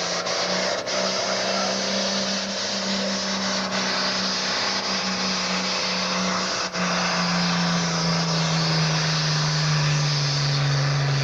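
Super farm pulling tractor's diesel engine running at high, steady revs, its pitch dropping a little near the end.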